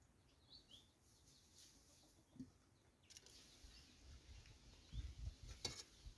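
Near silence with a few faint bird chirps, and a soft knock with some low thuds near the end.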